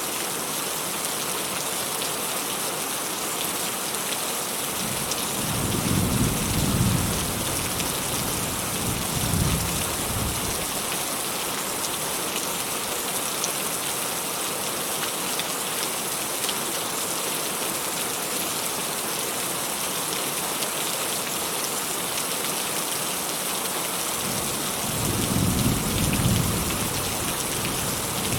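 Steady rain with distant thunder rumbling twice: a long roll starting about five seconds in, and another near the end.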